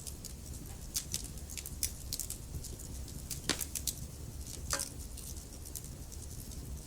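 Wood fire burning in a fireplace, crackling with irregular small pops over a low steady rumble, and a couple of sharper snaps about three and a half and nearly five seconds in.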